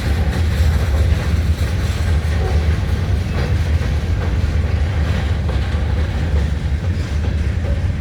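A Norfolk Southern rock train's cars rolling past, a steady heavy low rumble with no break.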